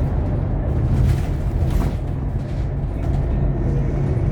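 Scania K230UB OmniLink bus heard from inside while under way: the steady low drone of its rear-mounted five-cylinder diesel and drivetrain, with a couple of brief rattles or knocks from the body about one and two seconds in.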